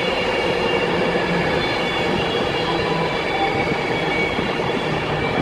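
Class 390 Pendolino electric train drawing into the platform: a steady rumble of wheels on rail with faint, thin, high squealing tones from the wheels and brakes.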